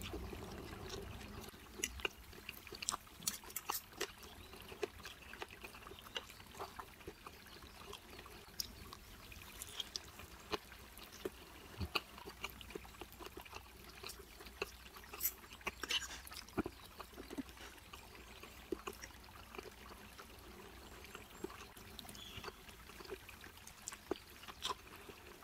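Close-miked eating sounds: wet chewing and smacking of fried noodles and meatball, with many short sharp clicks scattered throughout.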